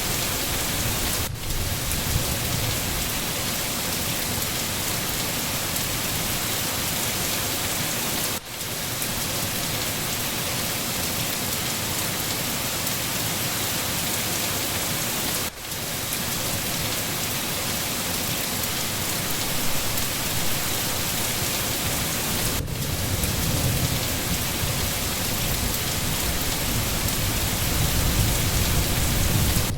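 Steady heavy rain hissing, with low rumbles of thunder, strongest near the end. The sound drops out for a moment about every seven seconds.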